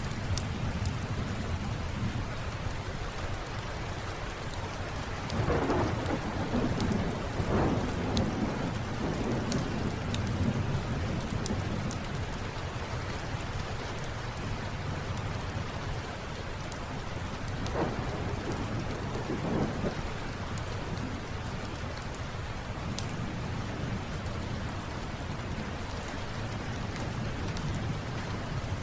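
Steady rain falling, with thunder rolling twice: a longer roll about five seconds in, then another about seventeen seconds in.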